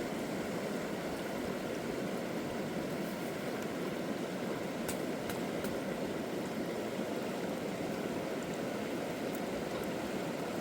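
River water running steadily, with a few faint ticks about halfway through and near the end.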